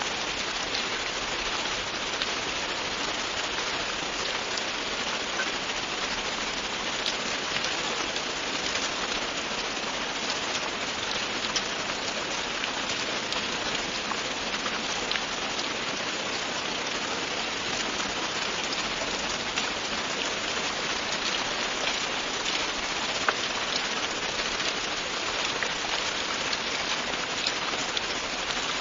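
Steady, continuous rain falling on a surface, with many small drop ticks scattered through the downpour.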